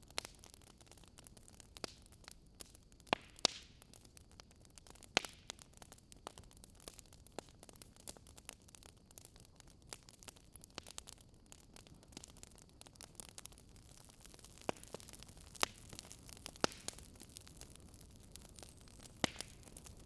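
Wood fire crackling: irregular sharp pops and snaps, a few louder ones near the start and in the last third, over a faint steady hiss.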